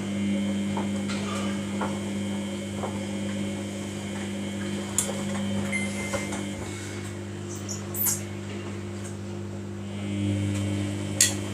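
Samsung washing machine running while it heats the wash water: a steady hum with a few light clicks and knocks.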